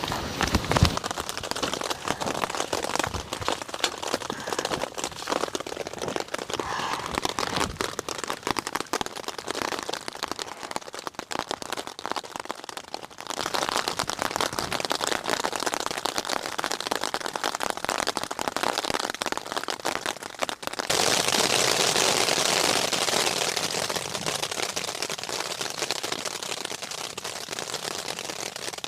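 Rain pattering densely in fine ticks. It changes abruptly twice: louder about halfway through, then a brighter, steadier hiss for the last third.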